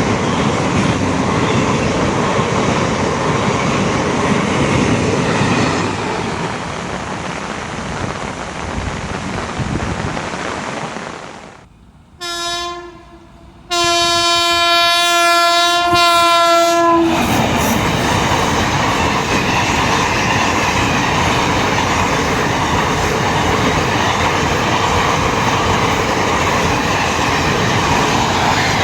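Passenger train passing at speed, wheels clattering over the rails, its rumble dying away about eleven seconds in. Then a locomotive horn gives a short blast and a longer one of about three seconds as another loud train rush takes over and carries on.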